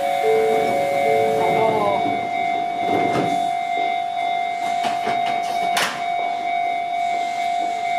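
Izu-Hakone Railway 7000 series electric train standing at the platform with a steady high electrical tone. A few short tones sound in the first two seconds, and there are some knocks. A sharp clunk comes about six seconds in as the doors shut.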